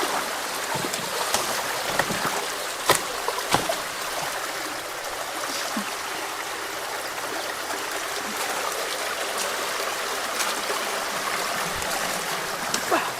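Creek water rushing steadily through a partly cleared culvert, with two sharp knocks about three seconds in.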